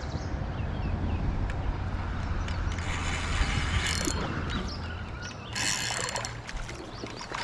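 Fishing reel ratcheting and clicking while a large hooked fish is being fought, in two spells, about three seconds in and again about five and a half seconds in.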